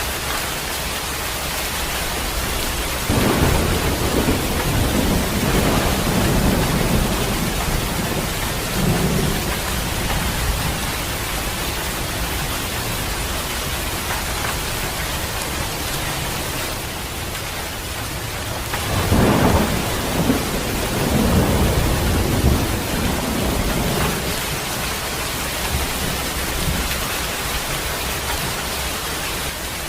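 Heavy rain falling steadily in a thunderstorm, with two long rolls of thunder, the first about three seconds in and the second about nineteen seconds in, each rumbling on for several seconds.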